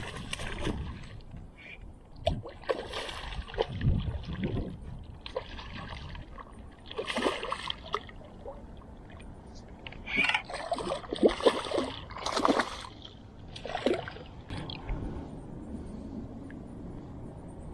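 Water splashing and sloshing in short, irregular bursts at the side of a canoe, with a few sharp knocks.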